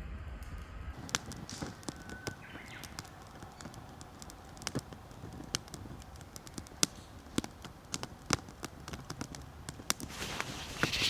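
Wood campfire crackling, with irregular sharp pops of burning wood and a brief rush of hiss near the end.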